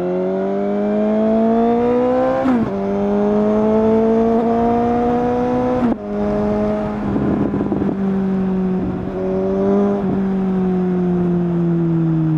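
2019 Suzuki GSX-S750's inline-four engine through a decat Yoshimura SQ11 exhaust with no dB killer, accelerating hard and climbing in revs, with a sharp drop in pitch at each of two upshifts, about two and a half and six seconds in. A rough, ragged stretch follows around seven to eight seconds, then the revs ease off and fall slowly near the end.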